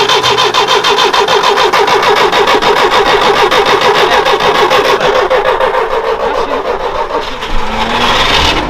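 Starter motor cranking the engine of an old GAZ Volga that has stood unused for three years, newly fitted with a borrowed battery. The engine chugs in a steady, rapid rhythm that fades near the end.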